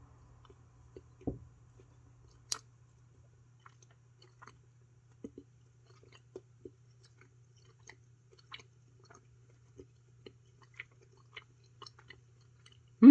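A person biting and chewing a chewy Fini Tornadoes pencil sweet: soft, irregular mouth clicks and squishes about every half second, with a stronger bite about a second in. A faint steady low hum runs underneath.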